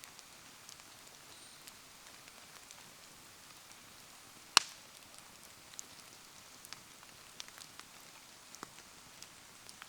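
Wood bonfire burning in the rain: a steady soft hiss of rain with scattered small ticks and crackles, and one sharp loud pop a little before halfway through.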